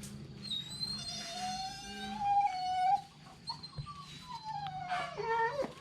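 Dog whining in long drawn-out cries: a steady one about a second in, a falling one near four seconds in, and a shorter cry near the end. The dog is in distress, thought to have had a fit or to have been bitten by a snake.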